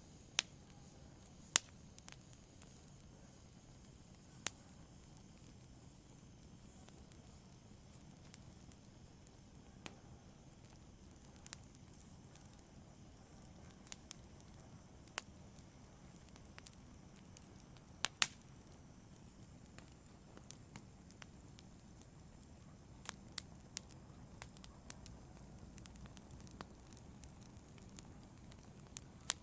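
Wood logs burning in a fireplace: a soft, steady hiss from the flames, broken by irregular sharp crackles and pops. A few of them snap louder than the rest, one near the start and one about midway.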